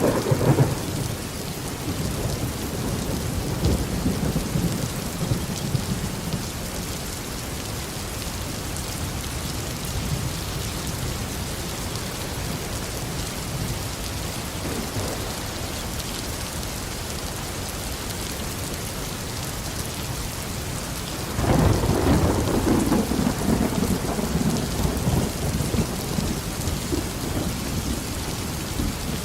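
Steady tropical rain falling, with thunder: a rumble dying away at the start, fainter rolls a few seconds in, and a loud rumble of thunder breaking out suddenly about two-thirds of the way through, then slowly fading.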